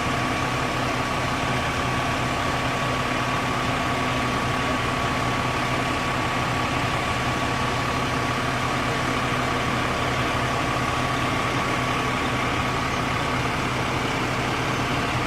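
Fire truck engine idling steadily, with a thin steady whine over the low running.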